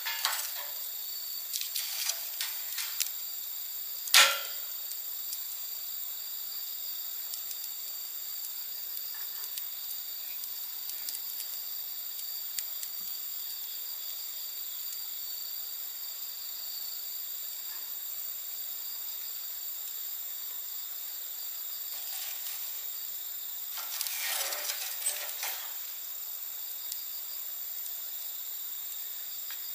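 Wood fire crackling, with one loud sharp pop about four seconds in and a short flurry of crackles about twenty-four seconds in, over the steady high trilling of insects.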